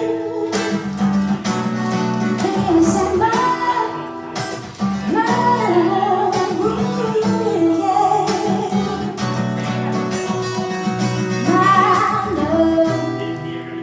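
Live song with acoustic guitar strumming and a singer holding long, wavering notes without clear words. The music eases off right at the end.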